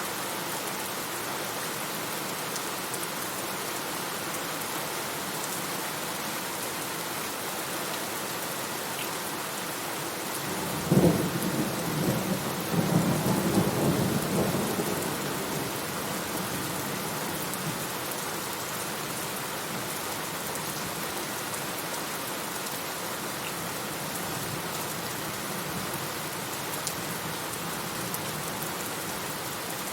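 Steady rain falling, with a sharp thunderclap about a third of the way in followed by a few seconds of rolling rumble that dies back into the rain.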